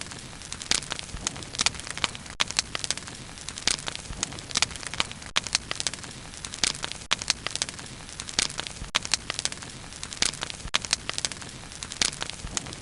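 Bonfire crackling: irregular sharp pops and snaps of burning wood, several a second, over a steady low rush of the flames.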